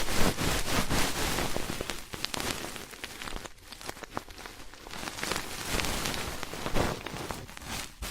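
Ear-cleaning ASMR sounds: an ear pick scratching and rubbing close against a microphone, a dense crackling scrape that swells and eases.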